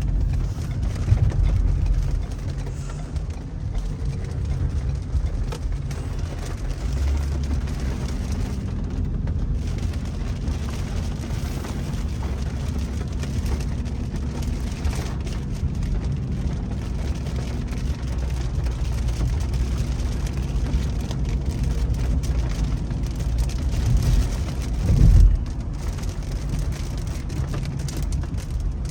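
A car driving in pouring rain, heard from inside the cabin: steady engine hum and road noise with rain on the car. There is a brief low thump about 25 seconds in.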